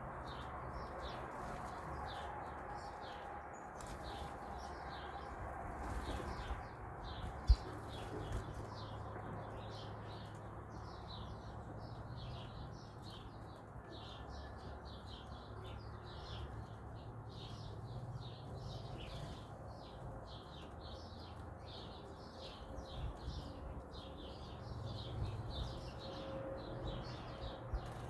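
Small wild birds chirping in quick, overlapping high notes, several a second, with a single sharp click about seven and a half seconds in.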